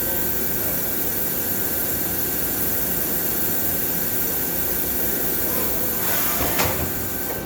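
NTC CNC vertical machining center running a drilling cycle: a steady machine hum under a continuous hiss like coolant spray, with a brief sharper clack about six and a half seconds in.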